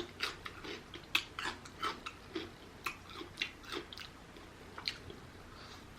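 Close-up mouth sounds of chewing rotisserie chicken: a quick run of short, irregular clicks that thins out about four seconds in.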